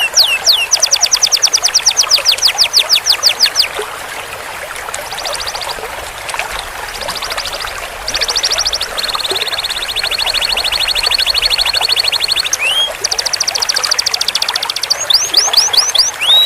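Domestic canary singing in long rolls: tours of fast repeated high notes a few seconds each, changing from one note type to another, with the longest, steadiest roll in the middle and slower sweeping whistles near the end.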